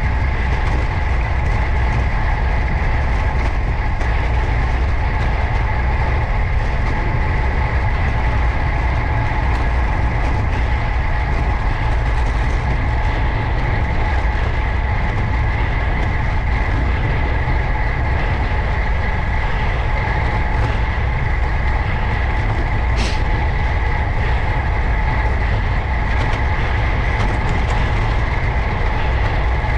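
Wind rushing over the microphone and road noise of a bicycle riding at speed: a steady, loud rumble with a constant faint whine, and a single sharp tick about three-quarters of the way through.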